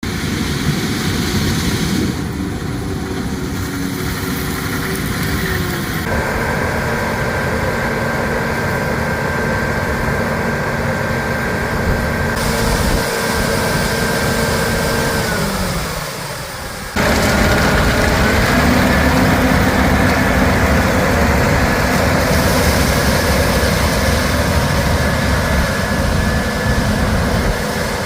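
Engines of harvest machinery running steadily, with abrupt changes several times. A whine slides down in pitch about fifteen seconds in, and another rises a couple of seconds later.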